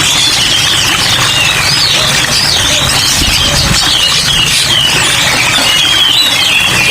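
Many songbirds chirping and twittering at once, as in a bird shop full of caged birds, over a steady hiss of rain.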